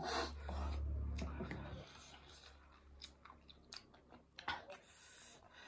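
Close-up mouth sounds of someone chewing noodles: a string of short wet clicks and smacks. A low rumble, the loudest thing here, fills the first couple of seconds.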